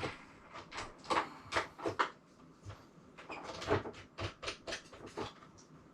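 Irregular run of short clicks and knocks, about two or three a second, from hard plastic and metal parts being handled and fitted during assembly.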